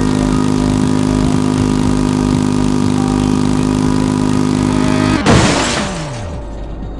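Vehicle engine running with a steady drone; about five seconds in it cuts off with a sudden loud crash-like burst and a tone falling in pitch.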